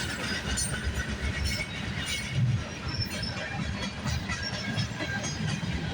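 Freight train cars rolling past: a steady rumble of wheels on rail with irregular clicking and clanking.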